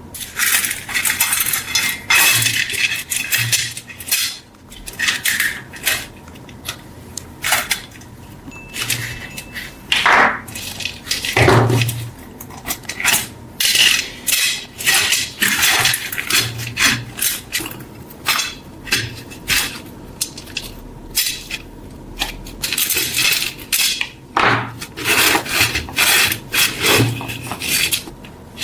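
Steel knife blade being worked by hand: a run of irregular, short scraping and rubbing strokes with light metallic clinks.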